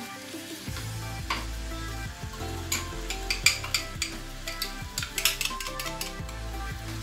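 A wooden spatula stirs and scrapes curd-marinated chicken in a non-stick pan, with a light sizzle. From about a third of the way in, the spatula's scrapes and taps against the pan come thick and fast.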